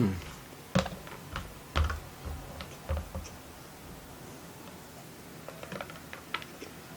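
Close-miked eating sounds: a few sharp utensil clicks on the plate with soft mouth and chewing thuds while eating fried rice, lighter clicks near the end.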